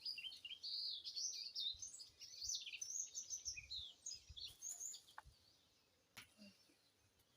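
Small bird chirping and twittering, a quick run of high notes that goes on for about five seconds and then stops, leaving only a few faint clicks.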